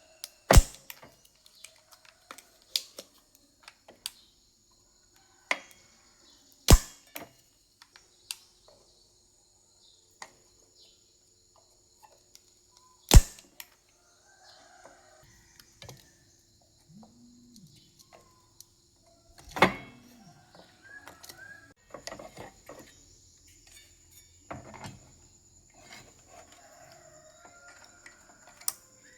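Irregular sharp clicks and knocks, a few loud ones standing out about half a second, seven, thirteen and twenty seconds in, with softer scattered ticks between. Behind them runs a steady high chirring of crickets and a faint hum.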